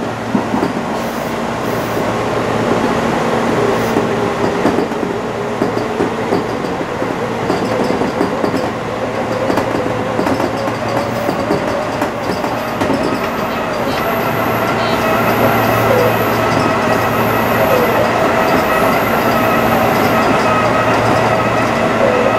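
Tobu Railway electric train running along the line, heard from inside the front cab: steady running noise of wheels on rail with a low hum. About two-thirds of the way through, a steady whine of several pitches joins in and the sound grows a little louder.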